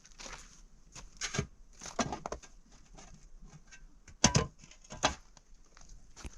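Wood knocking and cracking: a few sharp strikes spread over several seconds, the loudest about four seconds in.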